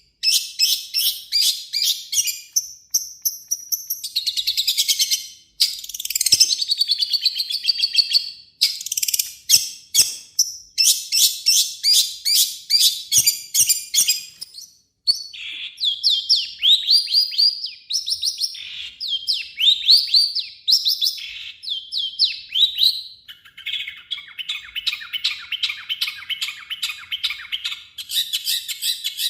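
Long-tailed shrike (cendet) singing a fast, harsh song of rapid scratchy notes. A run of short falling notes comes midway, and a dense buzzing trill follows near the end.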